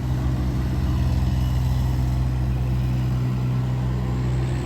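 Kubota U17 mini excavator's diesel engine running steadily, a low even drone with no change in speed.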